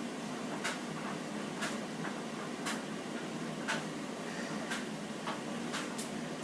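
Light clicks or taps about once a second, a few closer together near the end, over a steady low hum.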